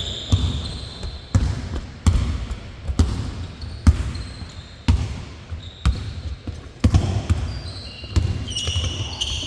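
A basketball dribbled on a hard court, bouncing about once a second. Sneaker squeaks at the start and again near the end.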